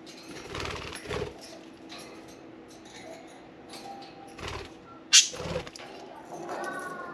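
Budgerigars chewing and shredding a soft wood toy: scattered scratchy, crunching clicks, with one sharp, loud click about five seconds in. A short budgie chirp comes near the end.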